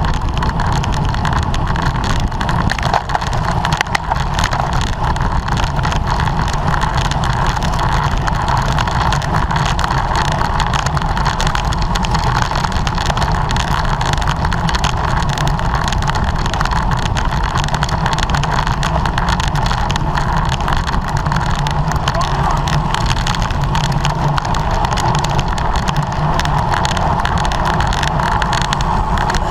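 Steady wind rush and road noise from a bicycle ridden at race speed, buffeting the microphone of a camera on the bike or rider.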